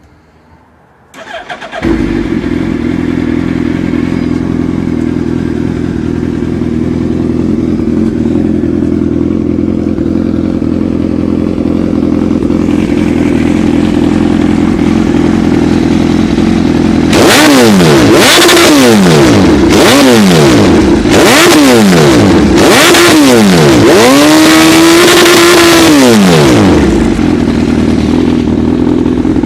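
A vehicle engine is cranked and starts about two seconds in, then idles steadily. From about 17 seconds it is revved in a series of quick blips, each falling back in pitch, the last held for about two seconds, before it settles back to idle.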